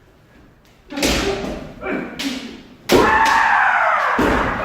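Kendo sparring: a sharp impact about a second in and another near two seconds, from foot stamps and bamboo shinai strikes. From about three seconds in comes a long shouted kiai, falling in pitch.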